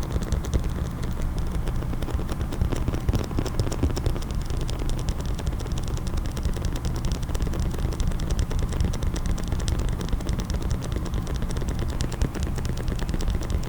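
Fast, steady tapping on a case, a dense stream of quick clicks over a low rumble.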